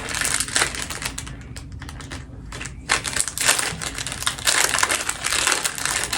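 Quick, irregular small clicks and crinkles of plastic packaging and a small item being handled, getting busier about three seconds in.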